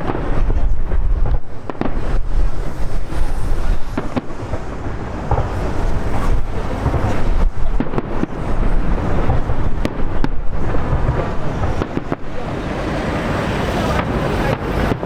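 Wind buffeting the microphone in a steady low rumble, with a few sharp, widely spaced bangs from distant fireworks.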